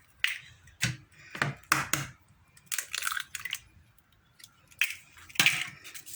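Two eggs being cracked open: a string of sharp taps and shell cracks with short pauses between them.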